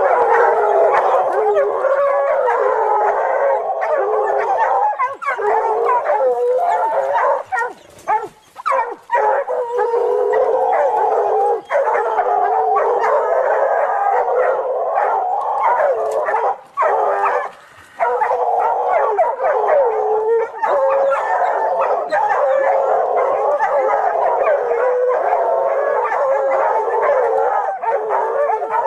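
Several dogs howling together: many overlapping, wavering howls with brief breaks about 8 and 17 seconds in.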